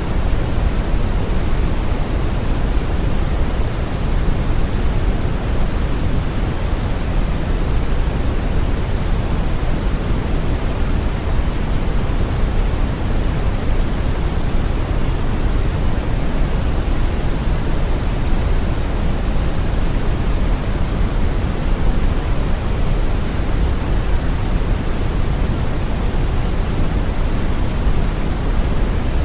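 Steady brown noise: a constant deep rumbling hiss, strongest in the bass and fading toward the treble, without change or pattern.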